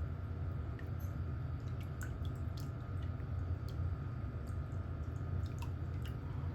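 Small, scattered clicks and scrapes from toenail-care tools working on a nail, over a steady low hum.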